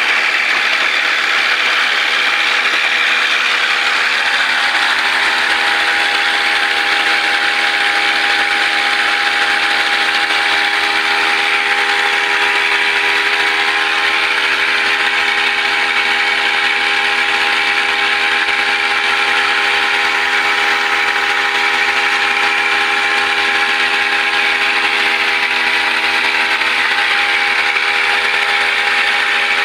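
Brush cutter engine running steadily with a constant mechanical buzz, its pitch unchanging throughout.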